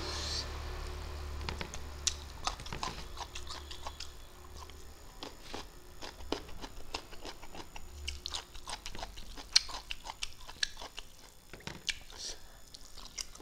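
Close-up chewing and lip-smacking of a person eating fish with his fingers: irregular smacks and clicks, several a second, with a few louder ones.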